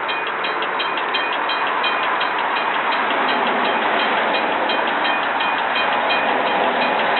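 Empty coal train rolling past, with the steady rush of steel wheels on the rails and a rapid, even clicking.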